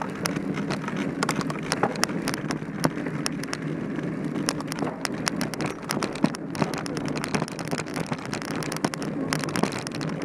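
Mountain bike ridden over a rough dirt trail: steady tyre noise with a constant stream of rattling clicks and knocks from the bike.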